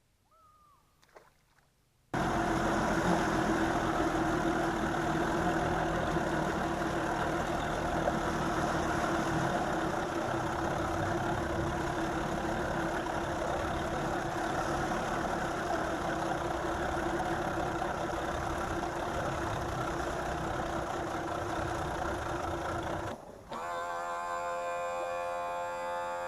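A bass boat's outboard motor running steadily with a constant hum. It cuts in suddenly about two seconds in and gives way to a different, pitched sound a few seconds before the end.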